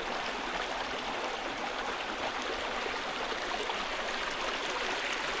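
Small brook babbling and running steadily over stones.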